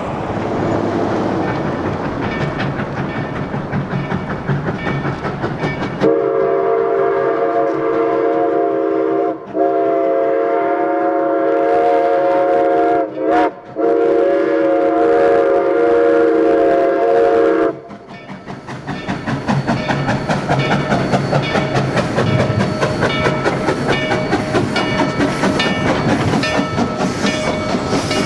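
Narrow-gauge steam train running. About six seconds in, the locomotive's chime steam whistle sounds a long blast of several notes for about twelve seconds, cut by two brief breaks. Then the train carries on with a fast, rhythmic clatter of wheels and cars.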